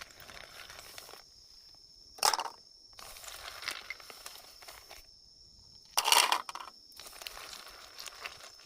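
Insects chirping in a steady, high, even tone, with rustling and two loud sharp crunches, one about two seconds in and one about six seconds in.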